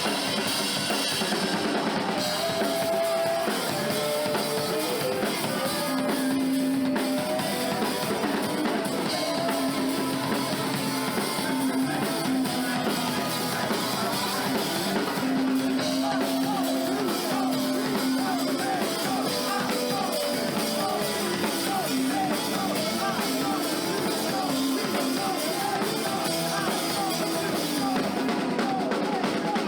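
A rock band playing live: drum kit and guitar carrying a song with held melodic notes.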